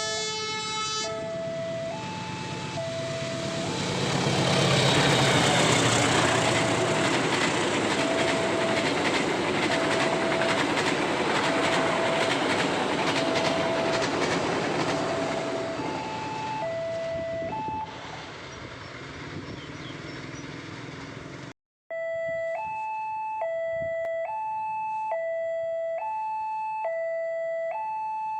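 A train passes over a level crossing with a loud steady rumble that swells and fades, while the crossing's electronic warning alarm keeps up its repeating chime. After a break near the end the alarm is heard alone, alternating between two tones. A pitched horn-like blast ends about a second in.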